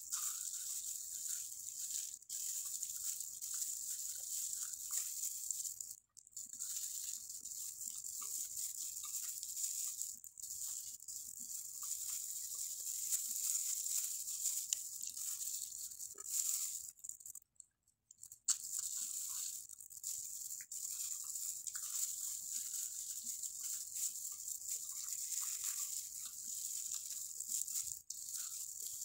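Close-up chewing and crunching while eating tilapia by hand, over a steady high hiss. The sound briefly cuts out about six seconds in and again around seventeen to eighteen seconds.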